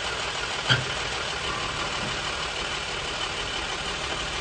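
Old Chevy truck engine running steadily, freshly brought back to life after sitting for 36 years, quiet with no ticking. A single sharp click sounds about a second in.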